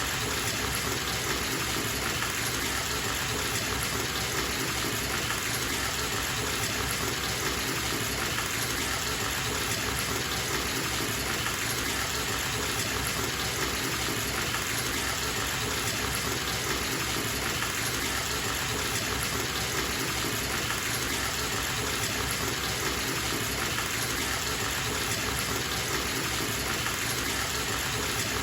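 Bathtub filling from a running tap: water gushing steadily into the tub.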